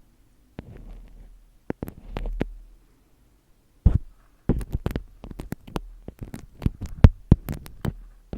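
Close-miked ASMR tapping and handling sounds: sharp, irregular clicks and taps, a few at first, then a dense run from about halfway in, over a faint low rumble.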